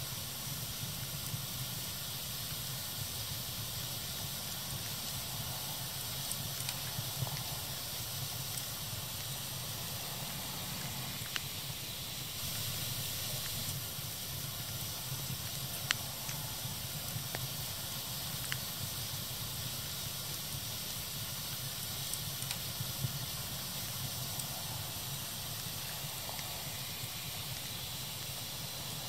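Wood fire burning with a steady hiss and scattered sharp crackles and pops, the loudest pop about halfway through.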